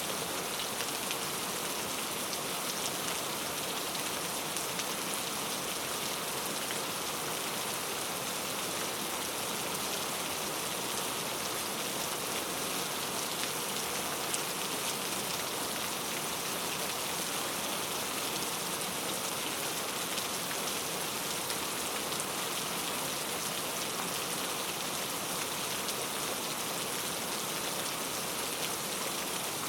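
Steady rain falling in a rainforest, a dense even hiss of countless drops with fine patters on leaves and surfaces.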